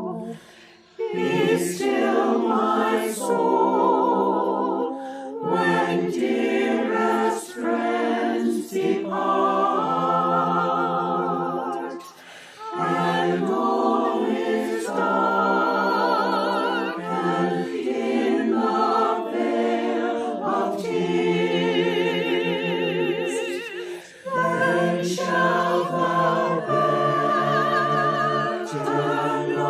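A small choir singing a hymn unaccompanied, several voices in harmony with vibrato. The phrases are sustained, with short breaks about a second in, about twelve seconds in and about twenty-four seconds in.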